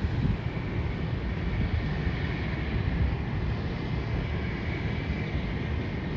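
Wind rumbling and buffeting on the microphone over the steady, distant noise of jet airliners at an airport, with a faint steady whine.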